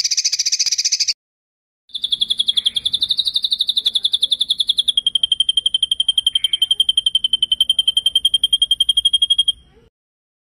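Recorded songbird song of the rolling kind used for masteran training: a short, fast high trill that stops about a second in, then after a brief gap a long, fast rolling trill that steps slightly lower in pitch halfway through and stops near the end.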